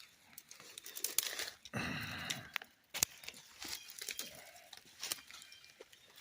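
Someone pushing through dense brush on foot: twigs and leaves scraping and snapping against clothing, with crackling footsteps, loudest for a moment about two seconds in.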